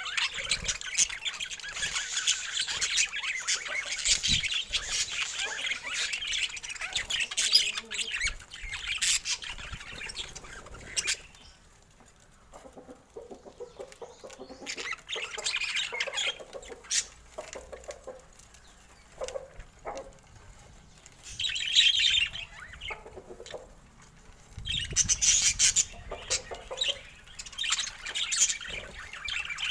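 Budgerigars chattering and chirping: dense, busy chatter for about the first ten seconds, then a quieter stretch with scattered calls, and thick chatter again near the end.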